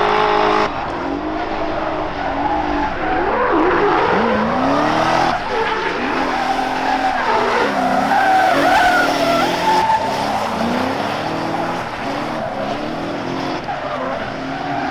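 Drift cars, among them a BMW E46 330Ci with its M54B30 straight-six, revving up and down over and over while the tyres squeal and skid.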